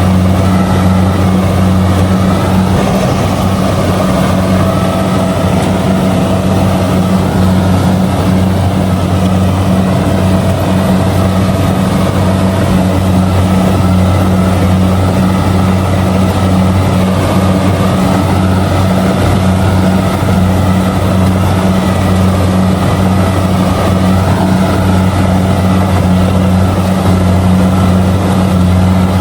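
Kubota DC70G rice combine harvester running steadily while harvesting: a loud, constant diesel engine drone with no change in pitch.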